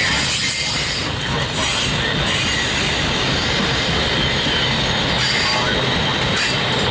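Freight train of multi-level autorack cars rolling past close by: a loud, steady rolling noise of steel wheels on the rail.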